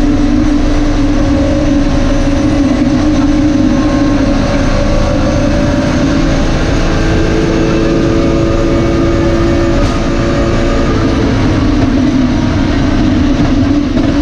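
BMW E30 rally car's engine running hard, heard from inside the cabin over road and wind noise. Its pitch holds nearly steady with small shifts, and the level dips briefly about ten seconds in.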